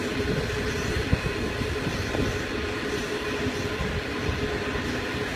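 Loaded iron ore train rolling past: a steady rumble of wagon wheels on the rails with a constant tone running underneath, and scattered clacks and knocks, the sharpest about a second in.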